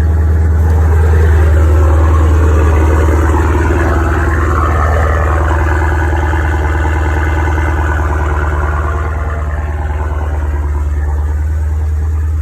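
Dodge Challenger Scat Pack's 6.4-litre 392 HEMI V8 idling loudly and steadily, its exhaust opened up by a mid-muffler delete.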